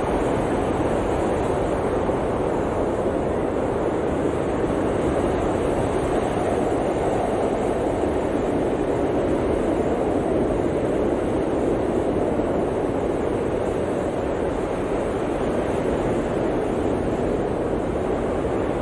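Blizzard wind blowing steadily, a dense rushing noise that swells and eases slightly but never stops.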